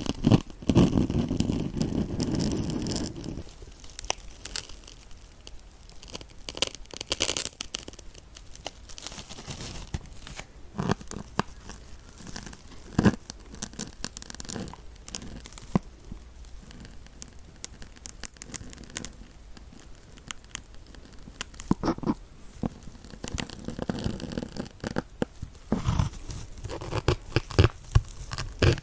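Needles being pushed into and scraped through a kitchen dish sponge, making irregular crackling, scratchy clicks. There is a denser, louder rustling stretch in the first few seconds.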